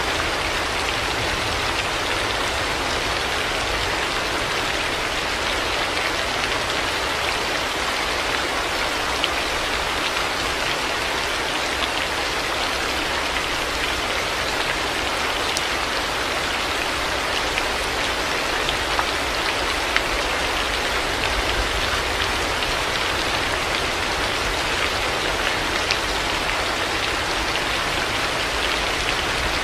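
Heavy rain falling steadily, a dense even hiss with scattered sharper ticks of individual drops.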